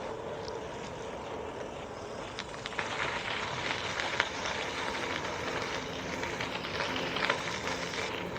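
Riding noise from a bicycle: a steady rush of wind and tyres rolling on a dirt path, with scattered clicks and rattles that get busier and louder from about three seconds in.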